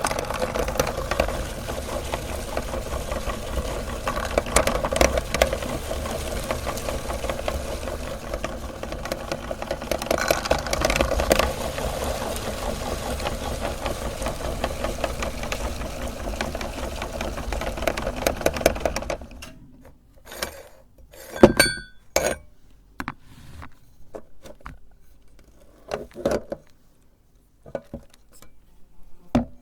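Electric meat grinder running steadily with a rattling churn as it grinds chocolate candy, then switched off about two thirds of the way through. A few scattered clicks and knocks follow.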